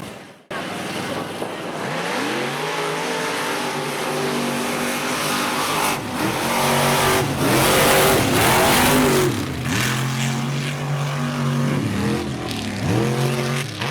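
Mega truck engine revving up and down again and again, starting half a second in, with a rush of noise at its loudest point about halfway through.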